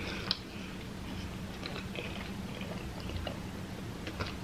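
A person chewing a mouthful of spicy fried chicken sandwich, with small soft mouth clicks scattered through and one sharper click about a third of a second in, over a low steady hum.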